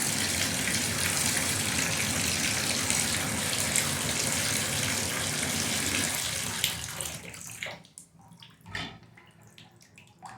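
Shower running through a newly installed single-handle shower valve cartridge, water spraying steadily into the tub to flush out debris. It is shut off about seven and a half seconds in, and a few drips and a low thump follow.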